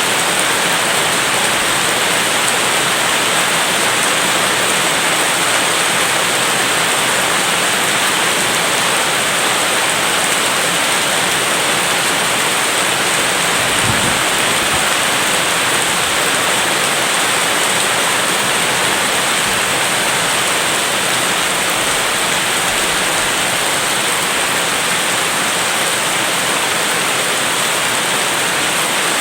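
Steady, heavy rain hissing evenly, with one brief low thump about halfway through.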